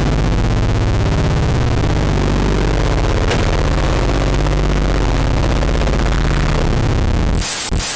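Loud, heavily distorted ear-rape noise: a dense, clipped wall of sound over a low droning bass. Near the end it breaks into choppy stutters.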